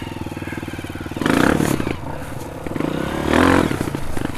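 Four-stroke single-cylinder Honda CRF trail bike engine running at low revs with an even beat, then two bursts of throttle, one about a second in and a second one near the end.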